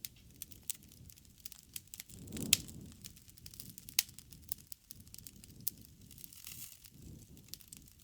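Wood fire crackling, with scattered sharp pops, the loudest about two and a half seconds in and another at four seconds, over a soft low rumble of the flames that swells around two and a half and seven seconds.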